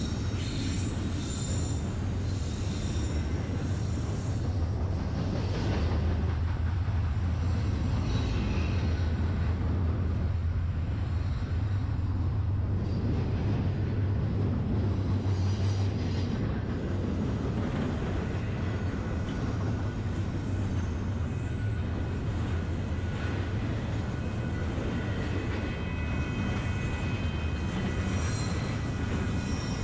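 Long freight train rolling around a tight curve: a steady low rumble from the locomotives and cars, with thin, high wheel squeal near the start and again near the end.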